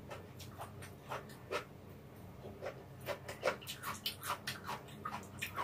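Close-miked chewing of stir-fried ramen noodles and bean sprouts: an irregular run of short clicking mouth sounds, a few each second, coming thicker in the second half.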